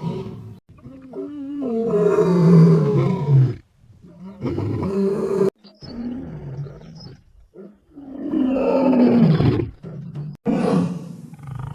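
A large wild animal giving several long, low calls, about four in all, with sudden cut-offs between some of them.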